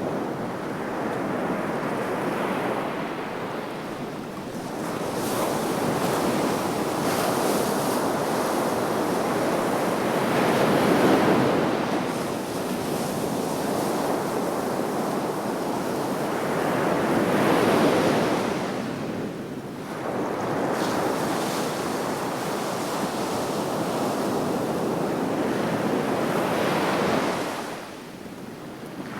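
Sea waves washing onto the shore: a continuous rushing surf that swells and ebbs, with louder surges about a third and about two-thirds of the way through and a drop-off near the end.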